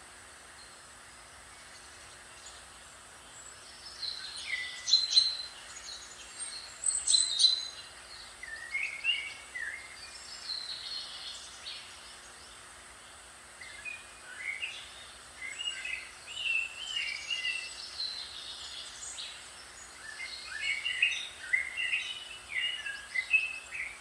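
A songbird singing quick, varied warbling phrases in three bouts, starting a few seconds in, over a steady faint hiss.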